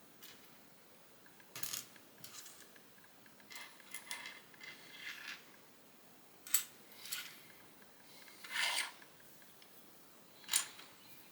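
Plastic Lego pieces being handled and pressed together: a scattered run of short rubs and scrapes, with sharp clicks about six and a half seconds in and again near the end.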